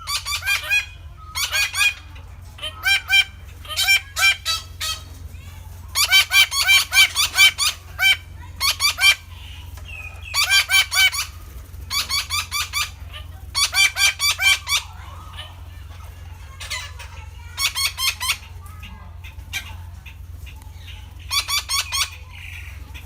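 Red-breasted parakeet giving harsh, repeated squawking calls in bursts of several notes, with short pauses between the bursts. A steady low hum runs underneath.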